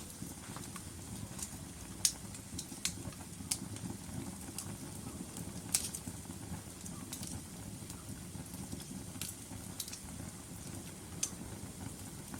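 Logs burning in a fireplace: a steady low rush of flame with scattered sharp crackles and pops, the loudest about two seconds in and again near six seconds.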